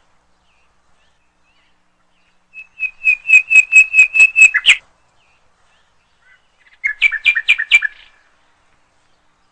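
A bird chirping in quick runs of sharp, repeated notes. A fast run of about nine chirps comes about three seconds in, and a shorter run follows about seven seconds in.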